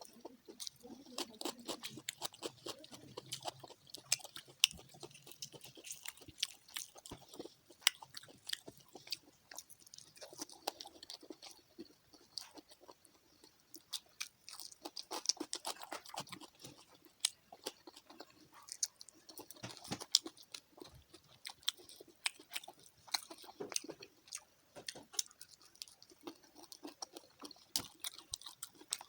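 Close-up eating sounds: a person chewing and biting into fried fish, with many small irregular crunches and wet mouth clicks.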